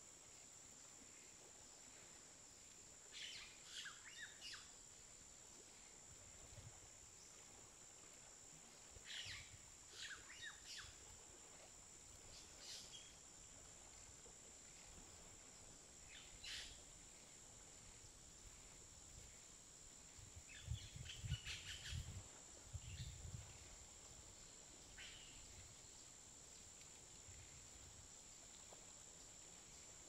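Faint natural outdoor ambience: short bird chirps every few seconds over a steady high-pitched whine, with a few soft low thumps about two-thirds through.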